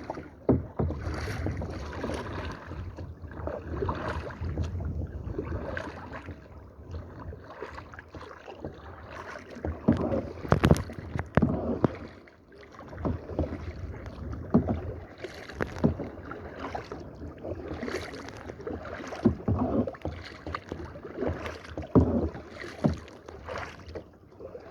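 Kayak paddles dipping and splashing in the water in irregular strokes, with an occasional sharper splash or knock.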